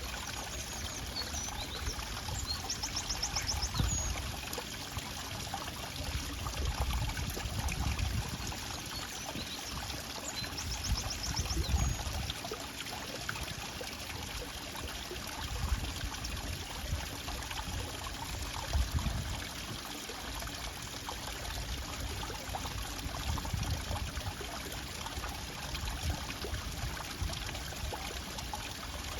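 Water trickling and running steadily, like a small stream, with low rumbling swells that come and go every few seconds. A brief high trill sounds twice, about three seconds in and again near eleven seconds.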